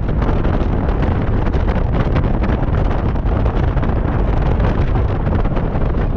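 Wind buffeting the microphone: a loud, steady rumble with a constant crackle.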